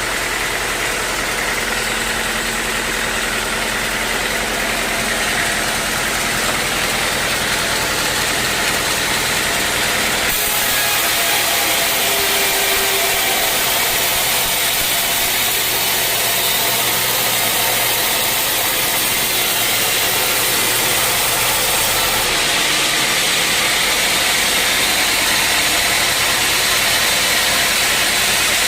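Sawmill machinery running steadily: an engine-like drone under a loud, high hiss. The sound changes abruptly about a third of the way in and again near three quarters.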